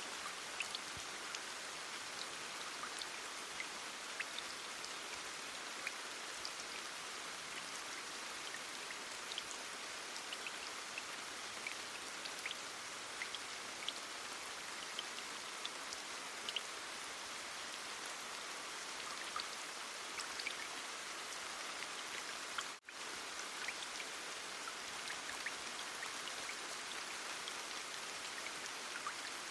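Steady heavy rain: an even hiss with many small scattered drop ticks. The sound drops out for a split second about two-thirds of the way through, then carries on as before.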